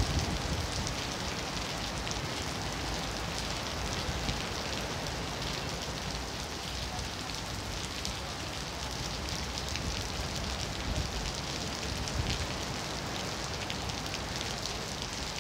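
Heavy rain falling steadily on paving and foliage, a dense patter of drops, with a low, uneven rumble of wind gusting on the microphone.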